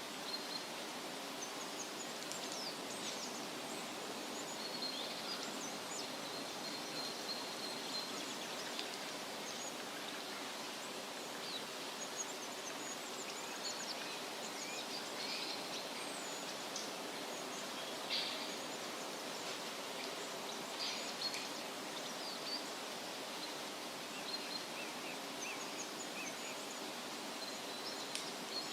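Woodland ambience: a steady rustle of wind through leaves, with many small birds chirping and trilling throughout.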